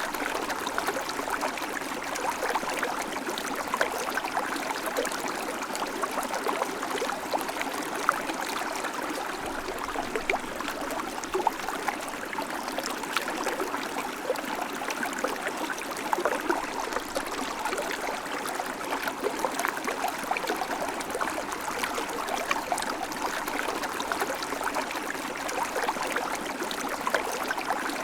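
River water flowing steadily over stones, a continuous rushing with small splashes and gurgles throughout.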